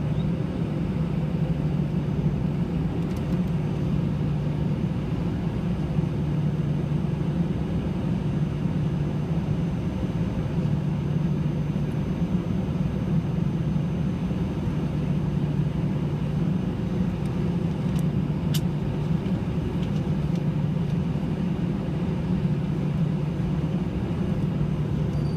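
Steady cabin hum of an Airbus A320-211 on the ground before takeoff, heard from a window seat: its CFM56 engines running at idle, an even low drone with no change in pitch.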